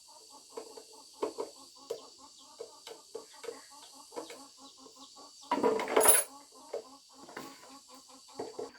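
Chickens clucking in a steady run of short calls, several a second, with one louder, harsher burst about five and a half seconds in.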